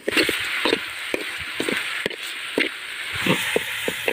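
Onions, tomatoes and green chillies sizzling steadily as they fry in oil in a metal kadai, with a metal spoon scraping and knocking against the pan about twice a second as they are stirred.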